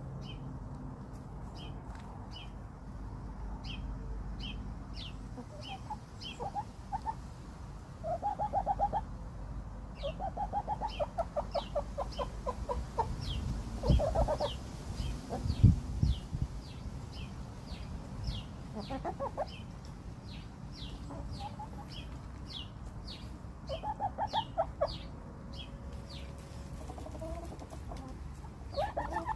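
Chickens clucking in runs of quick, short notes, over a steady series of high, thin chirps. A couple of loud low thumps come near the middle.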